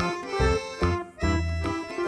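Upbeat background music with an accordion-like lead melody over a bouncing bass line.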